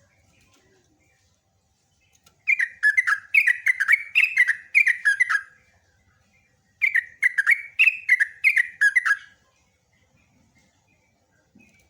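Yellow-vented bulbul (trucukan) singing two bouts of its rolling 'ropelan' song, each a quick string of bubbly notes that drop in pitch, the second bout starting about seven seconds in.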